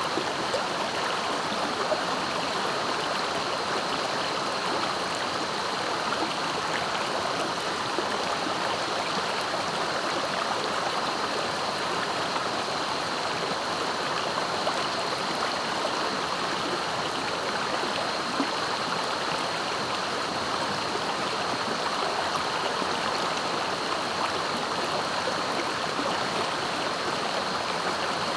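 Swift, clear river water rushing and splashing over its bed in a steady, unbroken flow, with a thin steady high tone above it.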